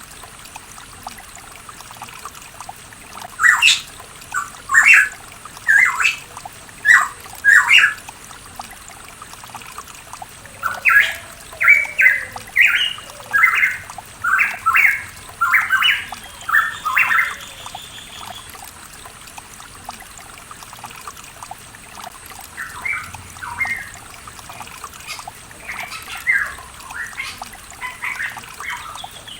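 Pitohui calling in a long series of short, clear notes, loudest and most rapid in the first half and sparser and fainter later, over the steady trickle of running water.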